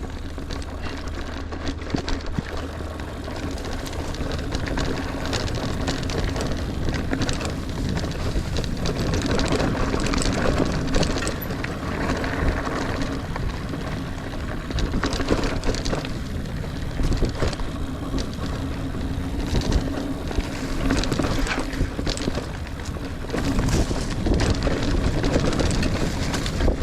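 A Niner Air 9 RDO 29er mountain bike riding rough dirt singletrack: tyres rumbling, with a constant clatter of rattles and knocks from the bike over bumps. It grows louder over the first several seconds as the bike gathers speed downhill.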